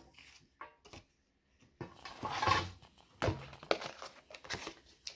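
White cardboard being handled and cut with scissors: irregular crinkling rustles, the longest about two seconds in, and several sharp clicks and crunches after it.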